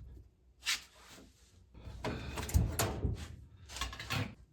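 Clattering and knocking of objects being handled: several short bangs, the loudest cluster about halfway through and another near the end.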